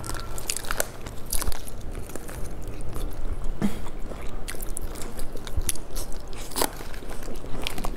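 Close-up sounds of a person biting and chewing boiled dumplings, picked up by a clip-on microphone: wet chewing with irregular sharp mouth clicks.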